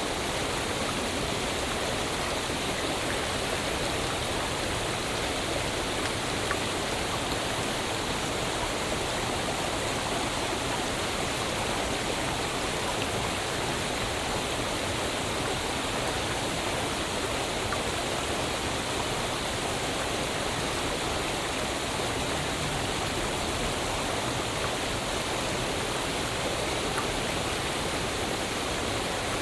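Waterfall: water falling and rushing in a steady, unbroken hiss with no changes.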